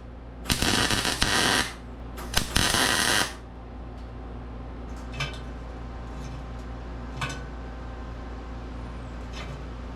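Two short bursts of welding, about a second each, with a crackling hiss, tacking a nut onto a bolt; then a steady low hum with a few faint clicks.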